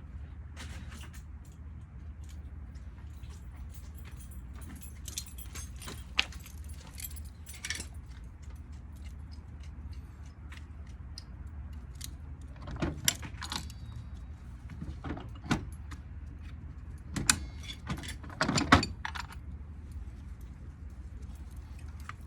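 Metal parts and hand tools clinking and knocking as a ceiling fan motor is taken apart: scattered light taps, with louder knocks in the second half, over a steady low hum.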